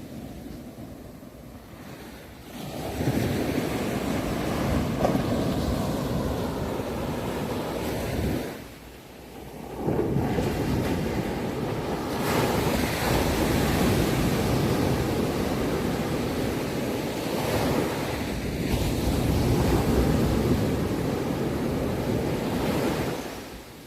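Sea surf: waves washing in as long surges of hiss, with a brief lull about nine seconds in, fading away near the end.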